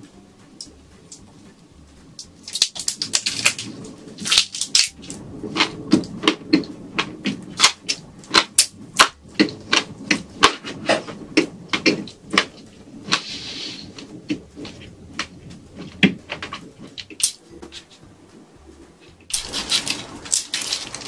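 Close-miked crunching of shrimp while eating: many sharp, irregular crisp cracks and clicks, with a few brief rustling bursts.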